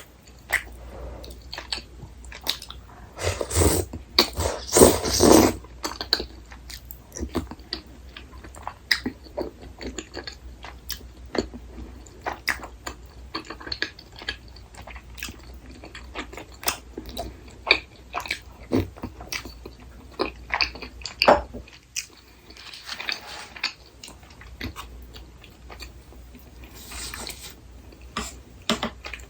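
Close-miked chewing and biting of food, with many small wet mouth clicks and a few louder, noisier stretches about three to five seconds in and again near the end.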